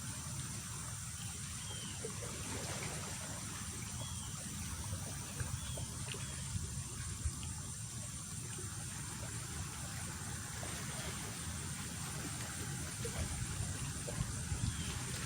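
Wind buffeting the microphone, a steady low rumble, with a faint high hiss above it and a few tiny chirps.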